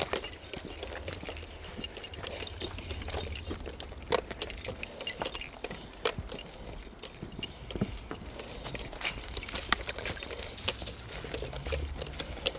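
Irregular light clicks and jingling rattles, over a steady low rumble.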